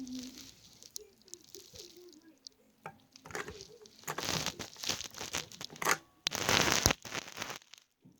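Paper rustling and crinkling in several bursts while being handled for stamping; the longest and loudest comes near the end.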